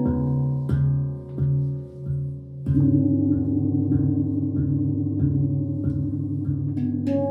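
Gongs struck with soft mallets in a steady pulse of about two strokes a second, their low tones ringing on under each stroke. About two and a half seconds in, the playing grows louder and fuller and stays so.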